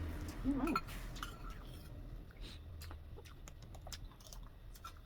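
Close-miked eating sounds: scattered small clicks and crackles of chewing and mouth noise, irregular and without a steady rhythm.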